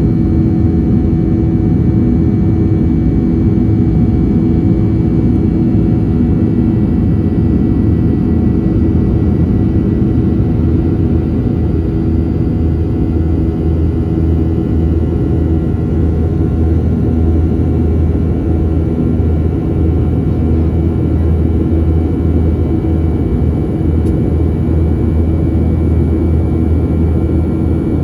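Boeing 737-700's CFM56-7B jet engines heard from inside the passenger cabin: a loud, steady rumble with a steady hum, the low drone growing a little stronger about halfway through.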